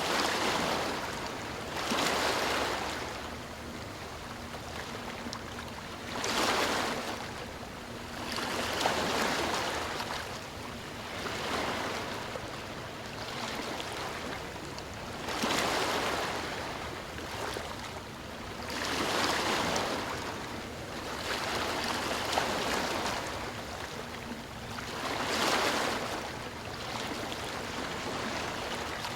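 Sea waves breaking and washing in, a swell of surf every few seconds over a steady rushing hiss.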